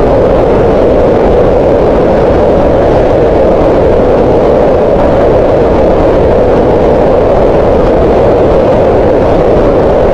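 Green noise: a steady, unbroken rushing noise centred in the middle of the range, around 500 Hz, with no change in level or pitch.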